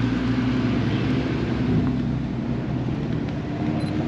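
A car engine running at a steady low idle, its pitch holding level with small shifts.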